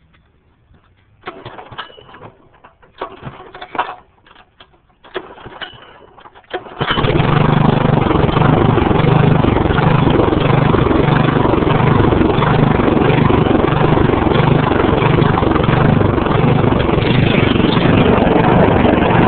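Wisconsin Robin WI-390 engine being started: several short, separate bursts of sound, then it catches about seven seconds in and runs on loud and steady with an even low pulse.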